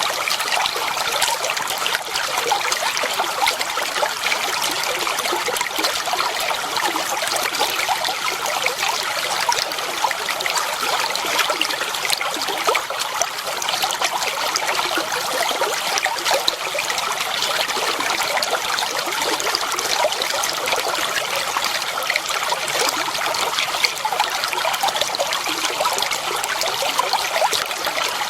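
Flowing water trickling and splashing steadily, a constant dense rush with many small splashes and no pauses.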